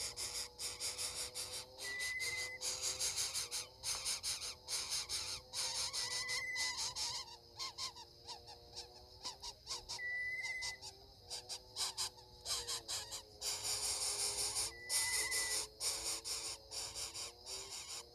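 Outdoor bird and insect sounds: a short, high, whistle-like call repeats about every four seconds over a dense, crackling insect chorus, with lower steady tones that shift in pitch every few seconds.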